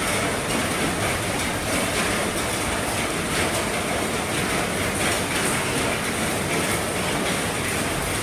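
Heavy rain pattering on an RV roof: a steady, dense hiss of drops.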